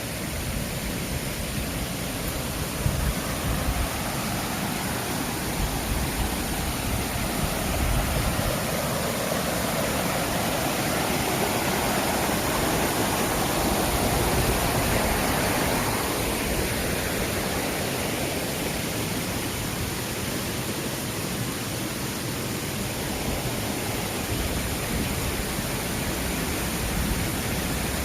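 Mountain stream rushing steadily, running full after rain; the rushing grows louder from about 8 seconds in, peaks around 14 seconds, then falls back.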